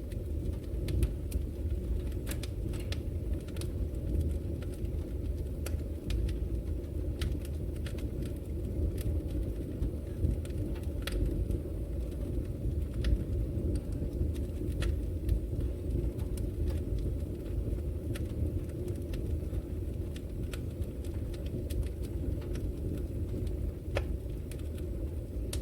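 Wood fire burning in a fireplace, with frequent irregular sharp crackles and pops over a steady low rumble.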